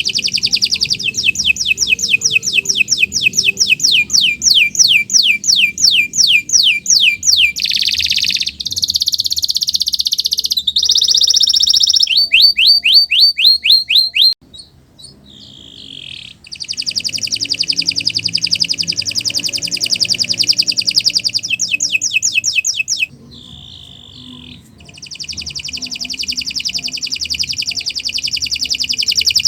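Domestic canary singing a long song: a row of quick downward-sweeping notes, about four a second, then fast trills and rolls, with two short quieter gaps, about halfway through and again about three-quarters through.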